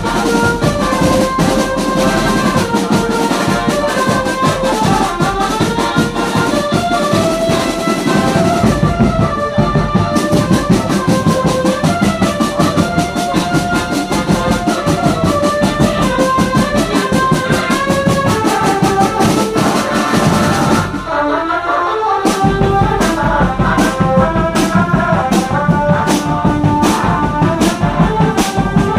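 Brass band playing a melody on trumpets and other brass over steady drumming. About three-quarters of the way through, the drums drop out for a moment, then return with sharp, even beats about twice a second.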